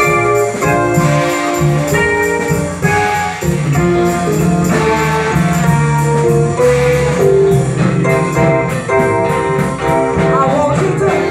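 Live band playing an instrumental passage, with a guitar prominent over a steady beat.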